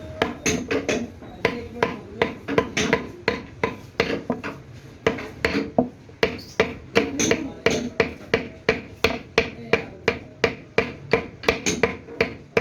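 Hand hammering: a steady run of sharp hammer blows, about three a second, each with a brief ring.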